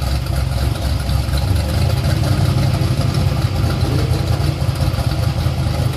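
Twin-turbo Ford Windsor small-block V8 in a Mustang drag car idling with a steady, choppy low rumble, not being revved.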